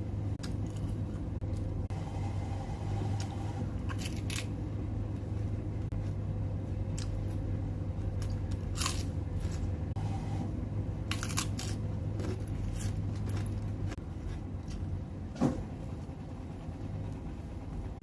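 Person eating for a mukbang: scattered crisp bites and crunches at irregular moments, over a steady low hum that stops about three quarters of the way through. The loudest single sound is a sharp knock a little after that.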